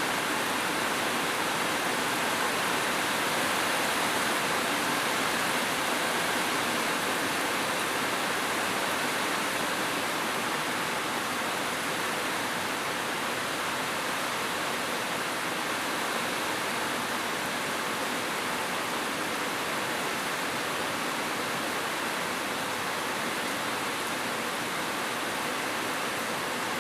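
Steady rainfall, an even hiss with no separate drops or thunder standing out.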